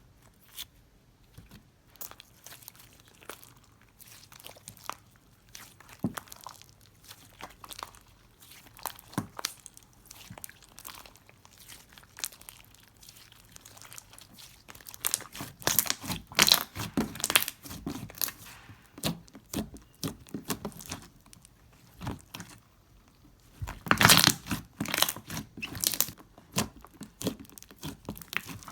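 Slime being squeezed, stretched and pressed by hand: a run of sticky clicks and crackles, densest around the middle and again about three quarters of the way through.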